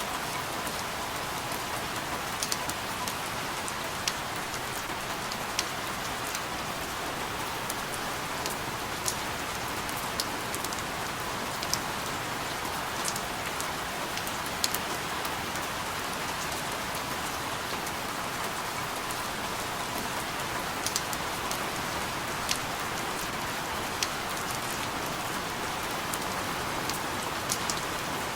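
Steady rain falling, an even hiss with scattered sharp drip ticks every second or so.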